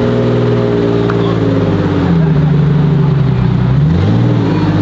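Car engine revving at the meet: held at a steady raised pitch, stepping higher about two seconds in, then dropping and blipped up and down near the end.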